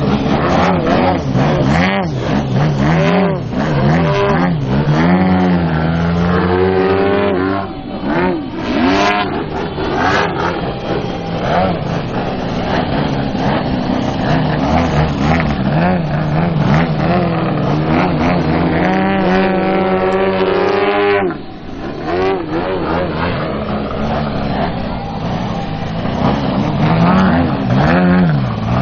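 Engines and propellers of two Krill Extra 330SC radio-controlled aerobatic model planes flying in formation. Their pitch keeps swooping up and down as they manoeuvre and pass, with a short drop in level about two-thirds of the way through.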